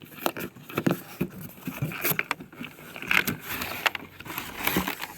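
Toy packaging being handled and opened: irregular taps, clicks and rustles of cardboard and plastic.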